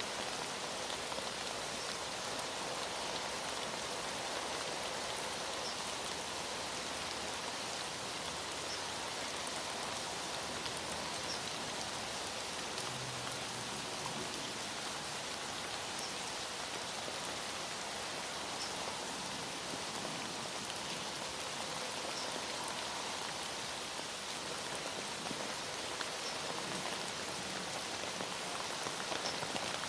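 Heavy rain falling steadily, with a dense patter of drops on a surface.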